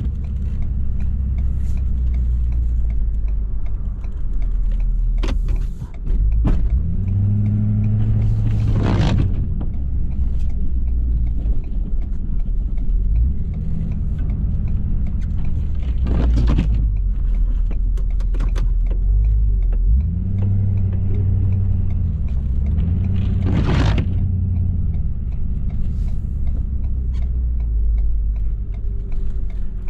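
Ford 6.7 Powerstroke V8 turbo-diesel in a 2018 F-350 running under load while plowing snow, its engine speed rising and falling several times. Several sharp knocks come at intervals.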